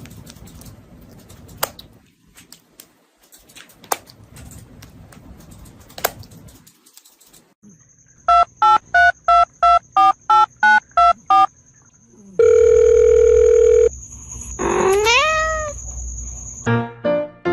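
Scattered sharp clicks over a low rumble, then a run of about ten quick electronic beeps like a phone keypad being dialled, followed by a steady tone lasting about a second and a half. A rising, gliding pitched call follows, and piano music starts near the end.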